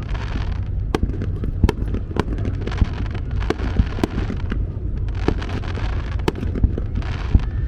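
Aerial fireworks bursting in quick succession: a string of sharp bangs, several a second, over a continuous low rumble, with patches of crackling hiss as shells open.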